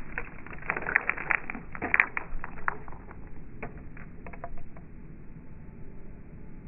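Slowed-down, lowered-pitch sound at a backyard bird feeder: a quick cluster of clicks and knocks in the first couple of seconds, then scattered single clicks.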